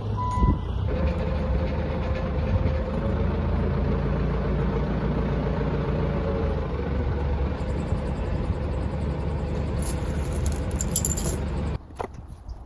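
A machine's engine running steadily with a low rumble and a steady whine over it, cutting off abruptly near the end.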